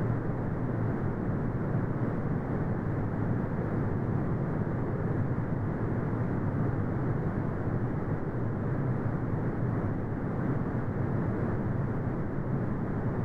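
Synthetic brown noise: a steady, deep rumbling hiss with most of its weight in the low end and almost nothing in the treble, unchanging throughout.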